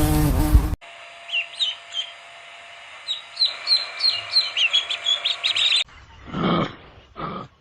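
A small songbird chirping: a quick series of short, falling high chirps. Before it, a loud insect buzz cuts off sharply. Near the end come two short, deep calls from a large animal.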